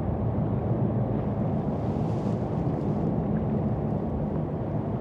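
Jet boat engine running steadily, heard from on board: a low, even drone with a rushing noise over it.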